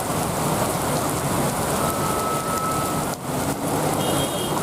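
Steady hiss of heavy rain with a low drone of idling truck engines underneath, and a brief dip a little after three seconds.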